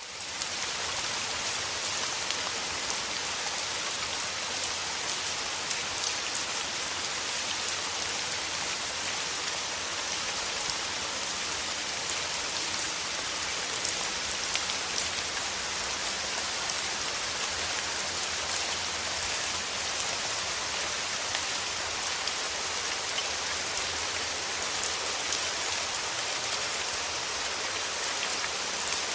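Steady rain falling, an even, dense hiss with scattered individual drop ticks, fading in at the very start.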